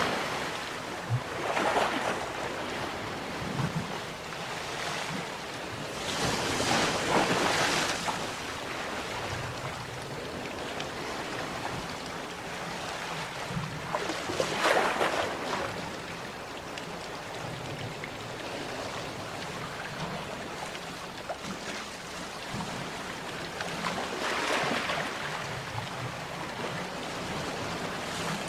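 Sea waves breaking, a continuous hiss of surf with four louder wave crashes swelling and fading several seconds apart.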